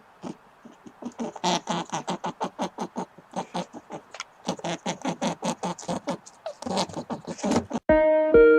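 An animal giving a rapid string of short, sharp calls or grunts, about six a second, with brief pauses. Near the end it cuts off abruptly and plucked guitar music starts.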